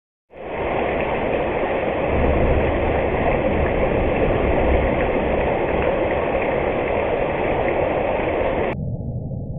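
Steady rain, an even hiss with no distinct drops or rhythm, that turns abruptly muffled and quieter near the end.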